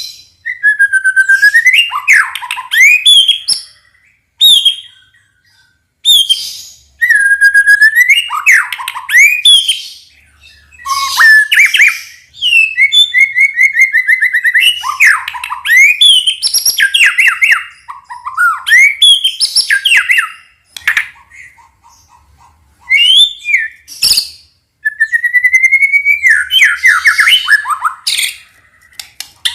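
White-rumped shama (murai batu) singing in loud, varied phrases of rising whistles and quick trills, with short pauses between them.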